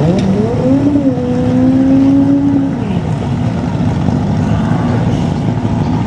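Drag-racing car's engine accelerating hard: the note drops and climbs quickly twice in the first second or so as it changes gear, then pulls steadily higher before falling away near three seconds in.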